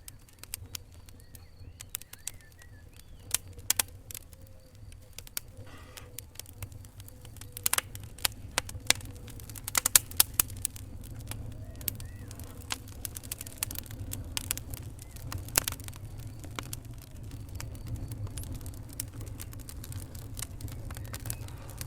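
Wood fire in a fireplace crackling: irregular sharp pops and snaps, with a cluster of louder ones about ten seconds in, over a steady low rumble of the burning fire.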